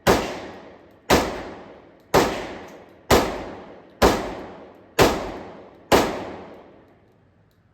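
Seven gunshots fired at a steady pace of about one a second, each followed by a second-long echo that dies away. The shooting stops about a second before the end.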